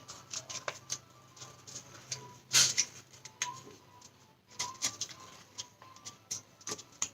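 Square of origami paper being folded and creased by hand: scattered crinkles and taps, with one louder rustle a little over two seconds in.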